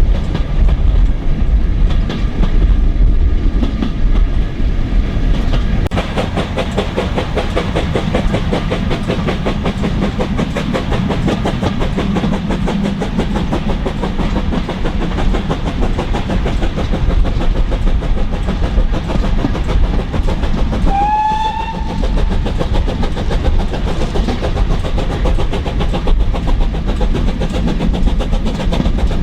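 Steam-hauled train behind GWR 2800 class 2-8-0 No. 2857 on the move: a steady rumble, with a fast, even beat setting in about six seconds in. Two-thirds of the way through comes one short steam whistle blast, rising slightly in pitch.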